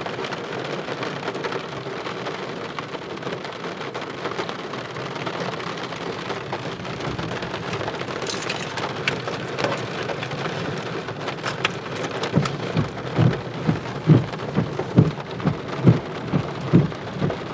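Heavy rain falling steadily in a thunderstorm. From about twelve seconds in, a run of loud, dull thuds about twice a second rises over the rain.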